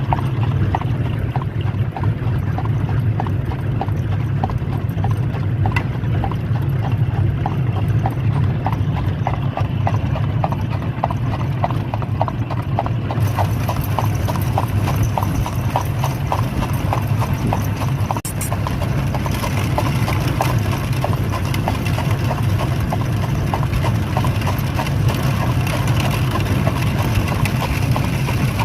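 Horse's hooves clip-clopping at an even trot on a hard road, pulling a buggy, over a steady low rumble of the wheels.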